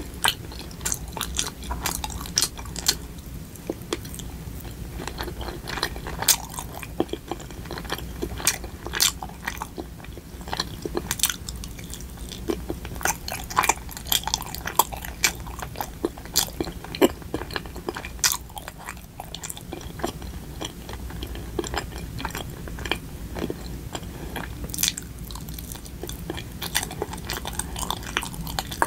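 Close-miked biting and chewing of soft, sticky Korean rice cakes (tteok), with frequent irregular sharp mouth clicks.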